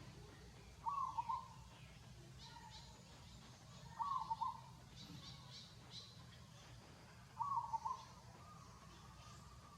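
Three short animal calls, about three seconds apart, with faint high chirps in the background.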